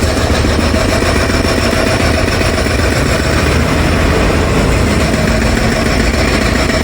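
Jackhammer breaking up the ground, a continuous fast hammering that runs on without a break.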